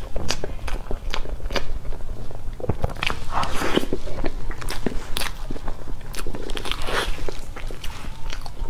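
Close-miked mouth sounds of a person chewing soft cream cake: irregular wet clicks and smacks, several a second, with a metal spoon scooping into the cake.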